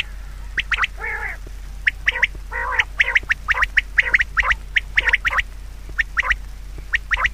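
Birds calling: a rapid run of short, sharp calls, with a few longer, harsher calls mixed in.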